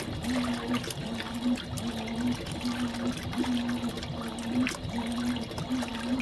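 Fisher & Paykel MW059 top-loading washing machine agitating a load. Its motor hums in short strokes, stopping and starting a bit more than once a second as the agitator reverses, over the slosh of the wash water.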